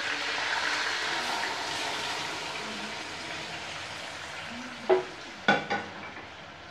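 Hot coconut oil sizzling as cooked beef and its gravy are poured in over fried curry leaves. The sizzle is loud at first and fades gradually. Two brief sharp sounds come about five seconds in.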